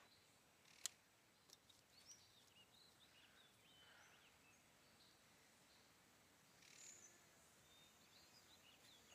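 Near silence with faint, scattered bird chirps and one sharp click about a second in.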